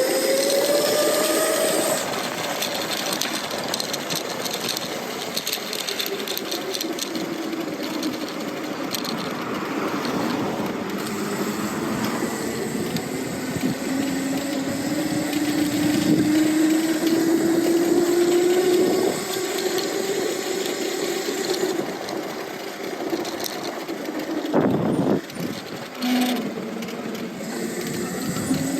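Lightning Rods XL mid-drive motor on a titanium e-bike whining under way, its pitch rising as the bike speeds up, over a steady rush of wind and road noise. A few brief knocks come near the end.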